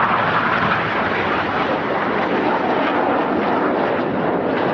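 BAE Hawk T1 jets flying past, their Rolls-Royce Adour turbofans giving a loud, steady jet engine noise.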